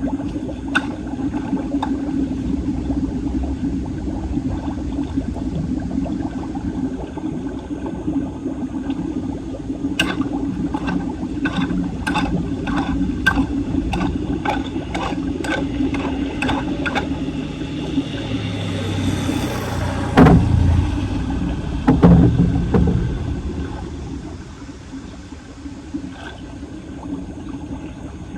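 Floodwater rushing and gurgling into a clogged street storm drain. Partway through comes a run of sharp clicks, about two a second, and then two heavy low thumps, the loudest sounds, after which the flow is quieter.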